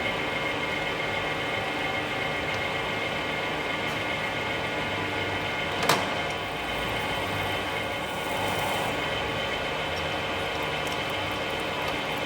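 Metal lathe running steadily while turning a large steel pin, with a steady hum and whine, and one sharp click a little before halfway.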